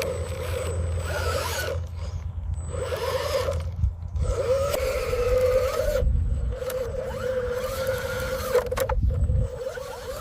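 Small electric motors and gearboxes of a radio-controlled construction model whining, the pitch rising and falling as the machine starts, stops and moves again, with short pauses about two, four and six seconds in.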